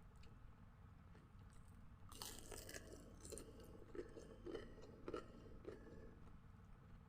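Close-miked chewing of crunchy food, faint: after about two seconds of quiet, a run of short wet crunches about twice a second, easing off near the end.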